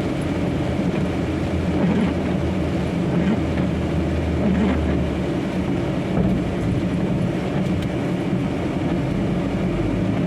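Heavy truck on the move, heard from inside the cab: a steady engine drone with road noise.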